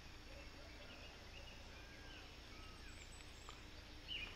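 Faint outdoor ambience with a few faint bird chirps and short whistles, mostly around the middle.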